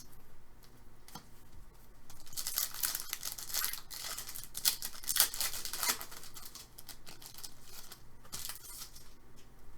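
A trading-card pack wrapper being torn open and crinkled, in a run of rustling bursts lasting a few seconds, with a shorter burst near the end.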